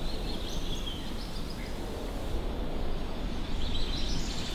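Outdoor ambience: a steady low rumble, with birds chirping faintly and intermittently.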